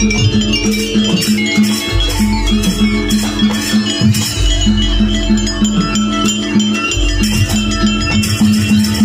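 Live jaranan gamelan music: a quick, steady pulse of tuned percussion over a deep gong stroke that swells about every two to three seconds, with sharp jingling and clicking percussion on top.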